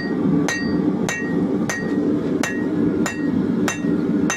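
Blacksmith's hammer forging out a knife blade from hot leaf-spring steel: about seven evenly paced strikes, roughly one every 0.6 s, each with a short metallic ring. A steady low hum runs underneath.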